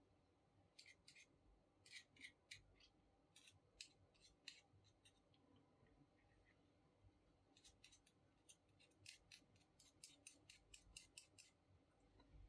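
Faint, sharp clicks in quick irregular runs: one from about a second in to about five seconds, and a denser one from about seven and a half to eleven and a half seconds.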